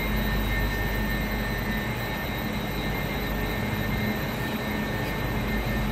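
Steady hum of a Eurostar high-speed train standing at the platform with its onboard equipment running, with a thin, steady high whine over it.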